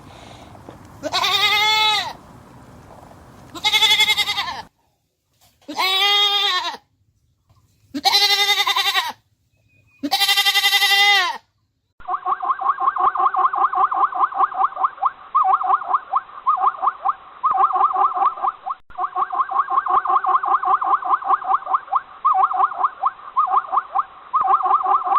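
A goat bleating, five loud calls about two seconds apart. About halfway through it gives way to a different animal call: a fast, chattering run of short notes, many to the second, going on with only brief breaks.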